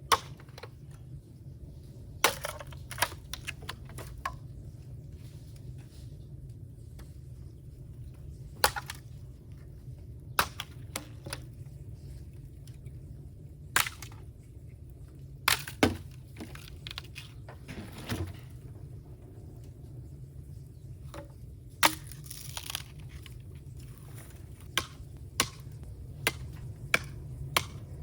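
Bamboo burning in an open fire, crackling with sharp, irregular pops and cracks over a steady low rumble.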